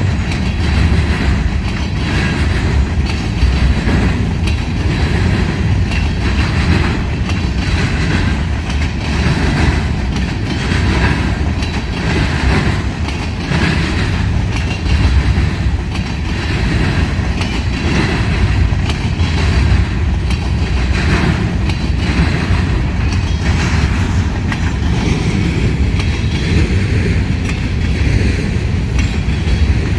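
Freight train cars rolling past at close range: a steady loud rumble with wheels clicking over the rail joints.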